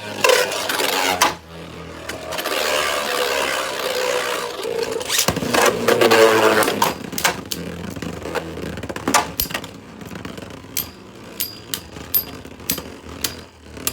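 Two spinning Beyblade tops, one of them 3D-printed, battling in a stadium. There is a whirring hum that falls in pitch as they slow, with sharp clacks as they strike each other. The clacks come as separate knocks near the end.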